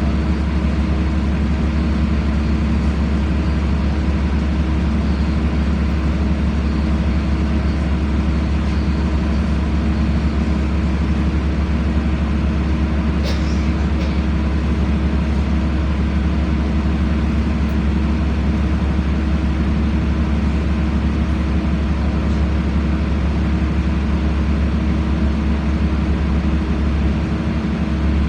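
LiAZ-5292 city bus under way, heard from inside the cabin: a steady, loud low engine drone mixed with running noise. There is a brief rattle about halfway through.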